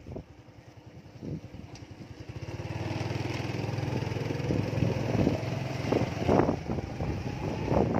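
A small engine comes up to speed from about two and a half seconds in and runs steadily, its pitch rising slowly, with a few louder bumps near the end.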